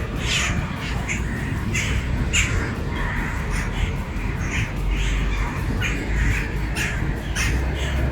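A large flock of starlings calling, many short shrill calls overlapping without pause, over a steady low rumble.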